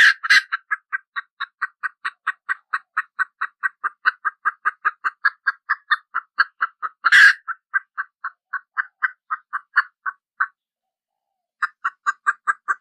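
A bird, likely a kind of fowl, calling in a fast, even series of short notes, about five a second, with louder harsh calls at the start and about seven seconds in. The series breaks off for about a second near the end, then starts again.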